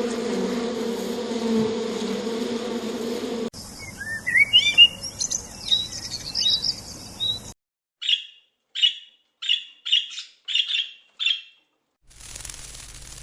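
A steady buzzing hum lasting about three and a half seconds, then a bird chirping in quick rising notes, then a run of six short calls about half a second apart.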